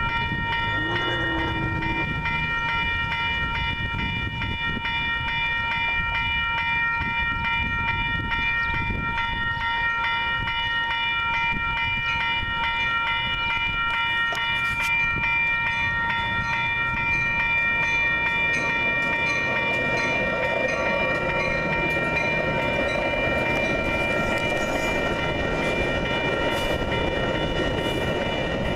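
Railroad crossing warning bells ringing steadily as a Metra commuter train of bilevel cars approaches. The train's rumble grows from about two-thirds of the way in as the cars roll past the crossing, with scattered wheel clicks.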